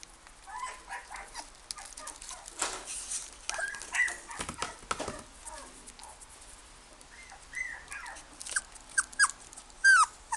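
Toy poodle puppy giving short, high whines and yelps, several of them in the latter half with the loudest near the end, over scattered sharp clicks and a brief scuffling noise in the middle.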